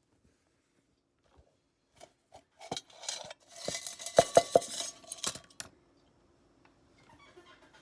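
Metal objects clinking and knocking: scattered sharp taps begin about two seconds in and build to a busy stretch with three loud ringing clinks in quick succession, then stop after a last knock.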